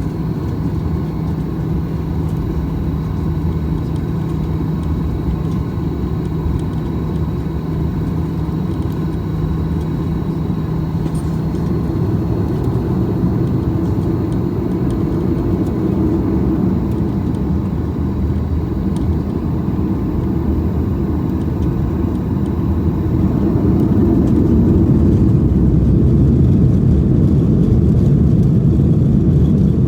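Cabin noise of a Boeing 737-800 from a window seat: a steady low rumble and rush from the jet's CFM56-7B engines and airframe while the plane moves on the ground, growing louder in the last third.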